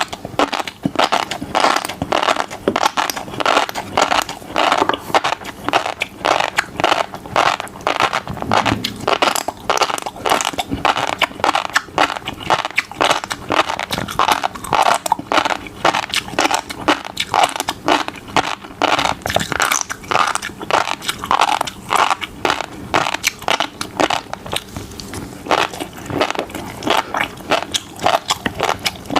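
Close-miked chewing of fish roe, a continuous run of rapid crackles and pops as the beads burst in the mouth.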